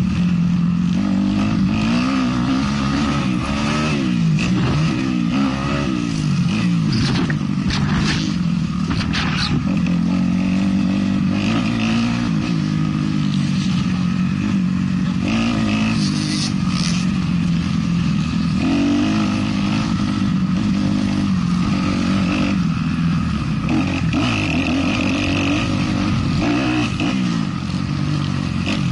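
Off-road motocross motorcycle engine revving up and down again and again as the bike is ridden hard round the track, with a few short clattering knocks.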